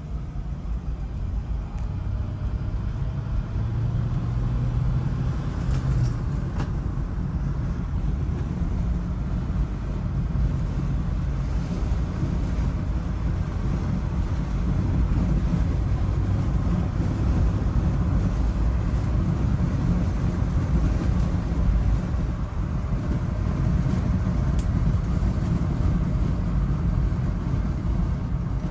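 1976 Chevrolet Blazer on the move, a steady low rumble of engine and road noise that grows slightly louder about halfway through.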